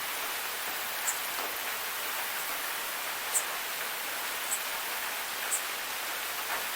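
Forest waterfall: water rushing and splashing in a steady hiss. Four short high-pitched sounds stand out above it, the loudest about halfway through.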